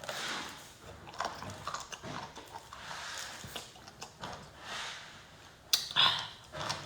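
A person eating, with close-up biting and chewing mouth sounds: wet clicks and crunches come irregularly throughout, and a sharper click and a louder, breathy burst come near the end.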